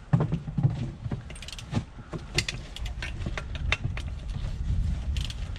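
Scattered sharp metallic clicks and clinks of tools working the bolts of a water-main repair clamp, over the low steady rumble of an idling engine.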